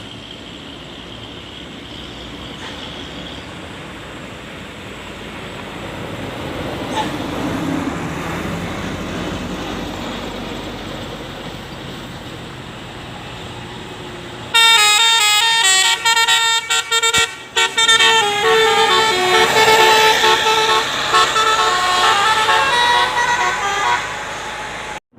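Road noise of a passing vehicle, then about halfway through a bus's multi-tone "telolet" horn plays a loud melody of quickly changing notes for about ten seconds.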